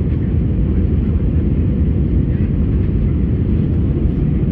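Steady low rumble inside the cabin of an Airbus A319 climbing out after takeoff, engine and airflow noise with no change in level.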